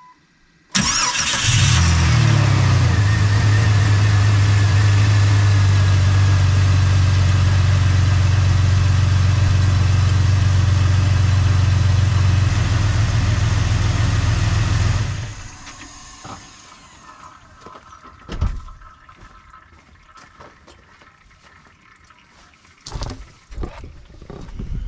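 Jeep Cherokee XJ engine starting, flaring briefly and settling into a steady idle, heard from beneath the vehicle: its first run after an oil change with a new oil pan gasket. The engine sound cuts off sharply about fifteen seconds in, leaving a few faint knocks.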